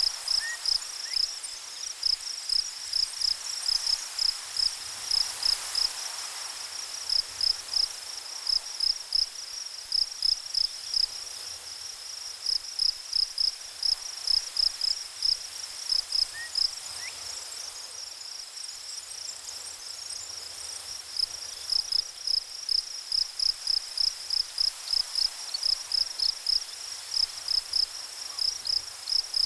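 Insect chirping in a steady run of short, high chirps, about two to three a second, pausing for a few seconds twice, over a faint steady hiss.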